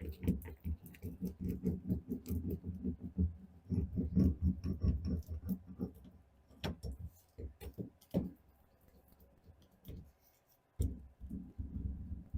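Hand roller pressed back and forth over a sheet of sound-deadening mat, a fast low clattering of rapid strokes with clicks. There is a spell of only scattered clicks in the middle, then more rolling near the end.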